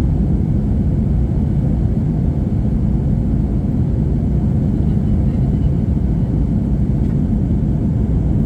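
Airliner cabin noise inside an Airbus A321-231: the steady, deep rumble of its IAE V2500 engines and the airflow, heard from a rear window seat.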